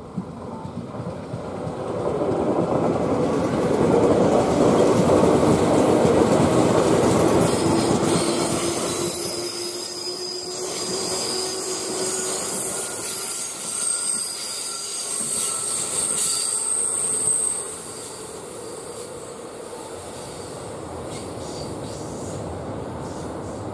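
JR West 221 series electric multiple unit passing close on a curve: the rumble and clatter of wheels on rail, with a slowly rising motor whine and high wheel squeal on the curve in the second half of the pass. The loud pass cuts off suddenly, and a quieter steady rumble follows as another train approaches over the bridge.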